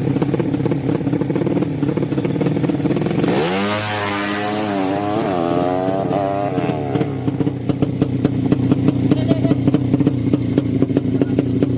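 Racing motorcycle engines of the 200cc sleep-engine drag class: an engine running, then a sharp rise in pitch about three seconds in as one is revved hard, wavering before it fades, followed by a lumpy engine with rapid regular ticks.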